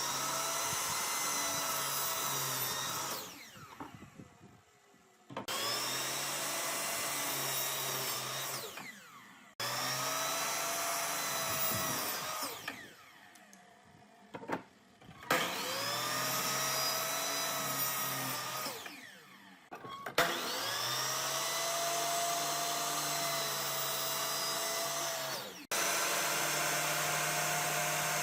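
Electric power tool motor switched on and off repeatedly. Each run spins up with a rising whine, holds steady for a few seconds, then winds down with a falling whine, about five times.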